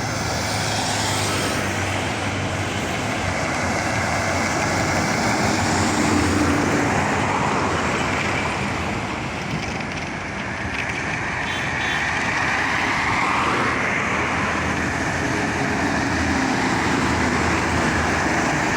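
Road traffic of buses and trucks: engines running and tyres on the road, with the engine pitch rising a couple of times.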